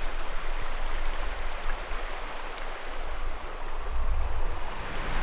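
A river running: a steady rush of flowing water, with a low rumble underneath.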